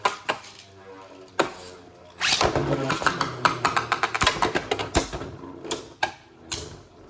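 Two Beyblade Burst spinning tops whirring in a plastic stadium and clashing: scattered clicks at first, then a rapid clatter of hits for a few seconds near the middle, easing off toward the end.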